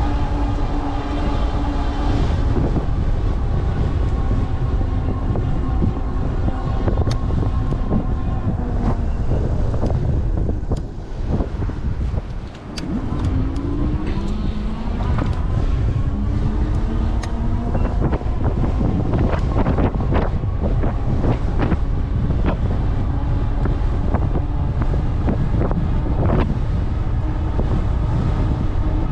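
Strong wind buffeting the microphone on an e-bike ridden into a heavy headwind, with a whine from the bike's 750-watt Bafang rear hub motor under high pedal assist and throttle. The whine fades and the rush drops briefly around ten seconds in, then the whine climbs back in pitch. Scattered sharp ticks come in the second half.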